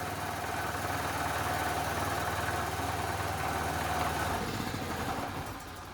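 Generac GP3250 portable generator's small single-cylinder engine running at a steady speed, which the owner suspects is a little low in RPM. About four seconds in, the steady note breaks up and the sound fades away.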